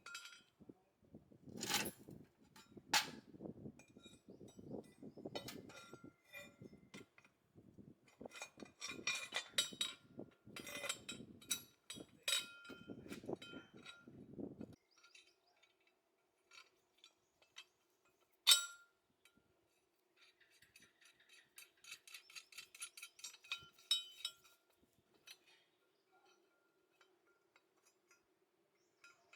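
Light metal clinks, taps and knocks of tools and metal parts being handled during hand workshop work, scattered and irregular in the first half. From about halfway a faint steady hum sets in, with one sharp knock and a short run of light rattling clicks.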